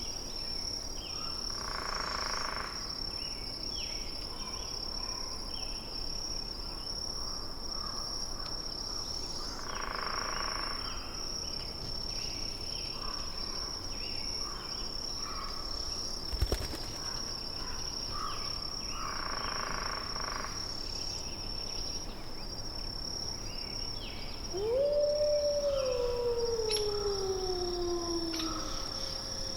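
Forest ambience: a constant high insect-like whine with scattered short bird chirps and soft swells of noise about every eight seconds. Near the end comes a long animal howl that rises quickly, then slides slowly down in pitch for about four seconds.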